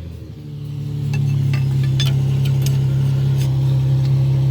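A motor running with a steady hum that fades up over the first second and then holds even. A few light metallic clicks, like tools, come over it.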